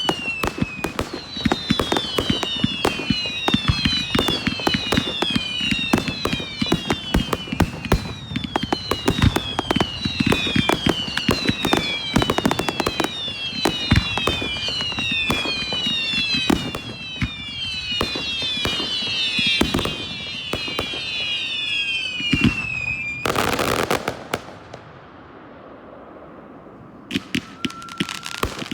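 Fireworks barrage: rapid bangs and crackling with many overlapping whistles, each falling in pitch. About 23 seconds in there is a loud burst, then a short lull before the popping starts again near the end.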